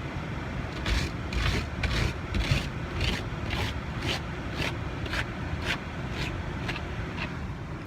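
Ice being scraped off an iced-over car with something other than an ice scraper: short rasping strokes, about two a second, in a steady rhythm.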